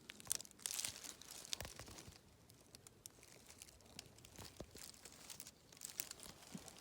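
Dry leaves and twigs crackling and rustling underfoot in slow, irregular steps, with scattered sharp snaps.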